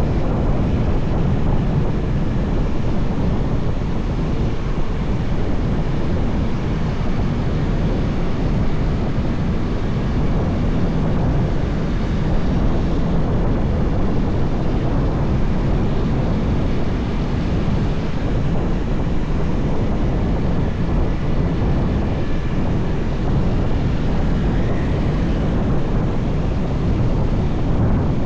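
Steady wind rush over the microphone of a moving motorbike, over the low, even rumble of its engine and the road.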